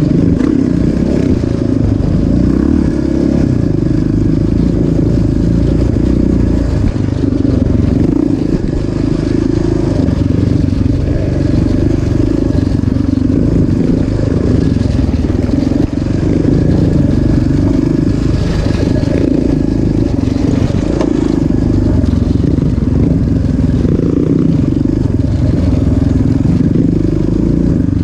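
Off-road vehicle engine running steadily, its pitch rising and falling a little as the throttle changes, with no break.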